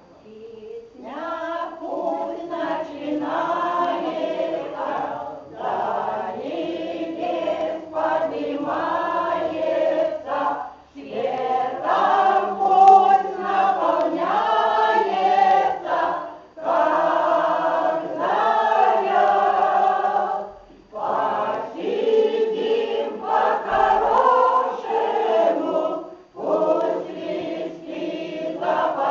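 A choir singing a song, starting about a second in, in long phrases with short pauses for breath between them.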